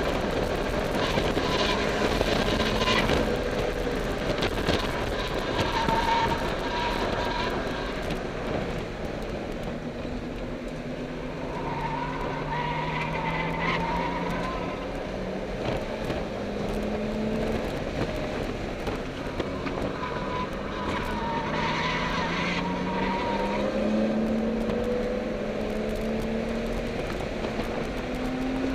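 A car's engine heard from inside the cabin under hard track driving. Its pitch climbs repeatedly as it accelerates out of corners. The tyres squeal briefly several times while cornering.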